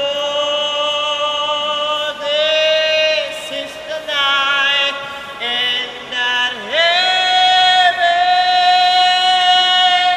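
A gondolier singing solo, unaccompanied, in long held high notes; a brief swoop down in pitch comes past the middle, then one long note is held for about three seconds to the close.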